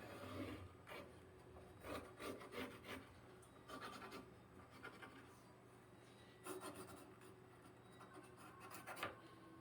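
Faint pencil scratching on a wooden fence board in several short strokes, marking out an outline for cutting.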